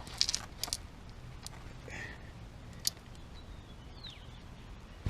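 A few sharp clicks and taps of a metal wrench being handled on the scooter's bolts. A small bird chirps a few short, falling notes in the background about three and a half seconds in.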